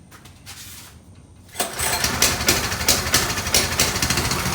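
Coleman CT200U mini bike's small single-cylinder engine being started: it catches about a second and a half in and runs unevenly at first, then settles toward a steady idle. The engine has just been refilled with fresh oil.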